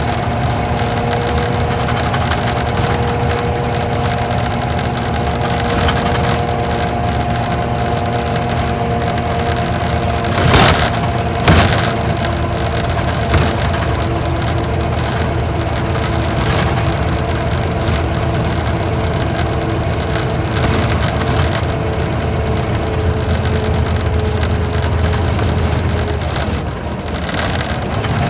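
Isuzu Gala coach's V-type diesel engine and road noise heard from inside the cabin while the bus is running: a steady low hum with a couple of held tones. A few sharp knocks come between about ten and thirteen seconds in.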